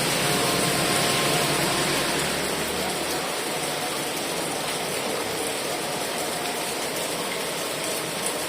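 Heavy rain falling steadily, a dense, even hiss. A low rumble underneath eases off about three seconds in.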